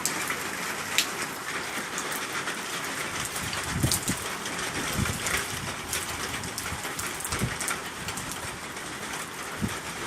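Heavy rain falling steadily, a dense hiss with many sharp drops striking close by and a few dull low thuds.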